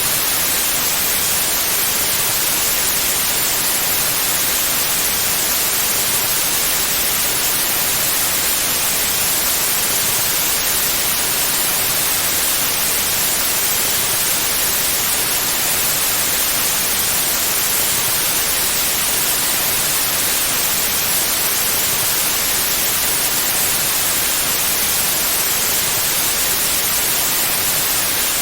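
Steady, unchanging white noise, a continuous bright hiss strongest in the high range, of the kind played as a sleep aid.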